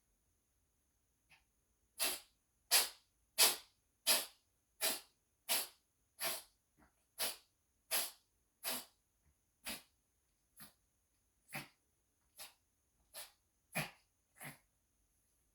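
Dog sneezing uncontrollably: about sixteen sharp sneezes in a rapid, even run, roughly one every 0.7 seconds, the first few loudest and the later ones weaker.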